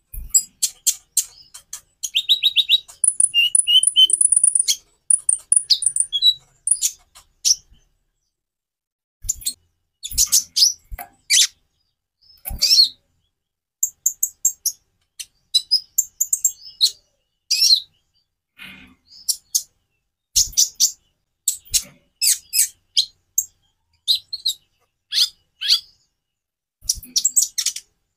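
Konin (kolibri ninja), a small sunbird, singing a varied song of rapid high chirps and trills in bursts with short pauses, including a fast trill a few seconds in.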